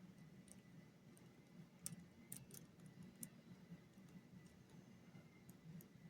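Faint, irregular metallic clicks of a lock pick working the pins inside a lock cylinder, a few per second at most, the sharpest about two seconds in.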